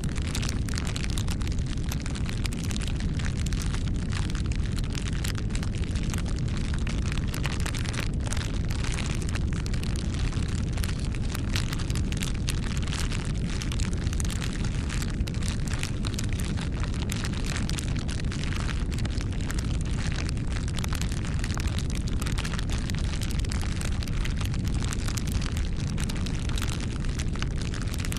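Wood fire burning: a steady low rumble of flames with dense, irregular crackles and pops.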